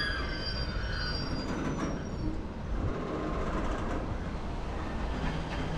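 Freight train rolling through a station, its wheels squealing with high tones that fade out within the first second. A steady low rumble of the wagons follows, with a few clanks about two seconds in, and a low steady hum joins near the end.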